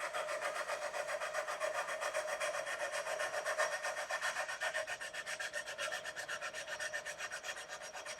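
A fret-levelling bar rubbed quickly back and forth along the whole length of the frets of a 2009 Squier Strat SE, in rapid even rasping strokes, about five a second. The frets are being levelled ahead of re-crowning.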